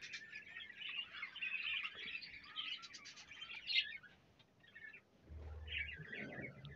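A colony of budgerigars chattering and chirping, busiest in the first four seconds and thinning after, with a low rumble coming in about five seconds in.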